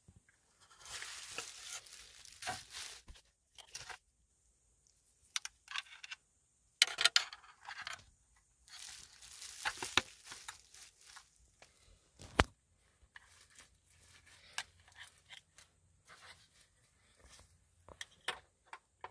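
Hands working the head unit's wiring harness and plastic: irregular bursts of tearing and crinkling with scattered sharp clicks, the loudest click about twelve seconds in.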